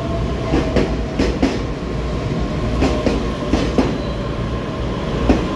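EMU3000 electric multiple unit rolling past along the platform: a steady low rumble broken by sharp wheel clicks, mostly in close pairs, as the bogies cross rail joints, over a faint steady whine.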